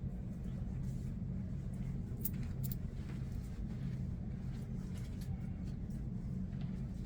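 Steady low machinery hum of a cruise ship cabin, with a few faint soft clicks and rustles about two to three seconds in.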